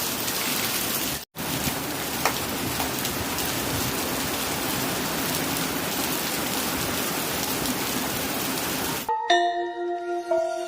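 Steady heavy rain falling, with a momentary cut-out about a second in. Near the end the rain stops abruptly and music with held tones begins.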